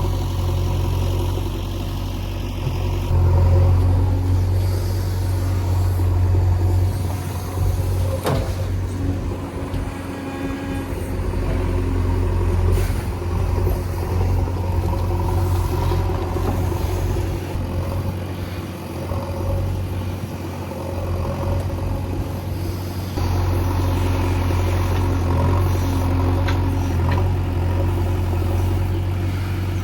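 Engine of heavy farm machinery running with a steady low hum. The hum eases off about a quarter of the way in and comes back strongly past two-thirds of the way through, with one sharp knock near the start of the quieter stretch.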